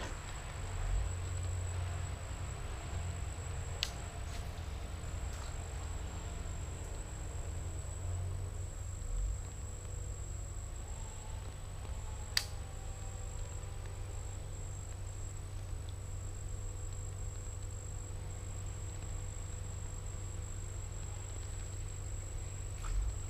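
Insects droning steadily on one high pitch, over a low rumble, with a sharp click about four seconds in and another about twelve seconds in.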